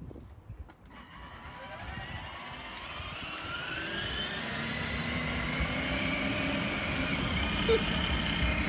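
Aircraft engine noise growing steadily louder as the aircraft approaches, with several tones sliding slowly upward.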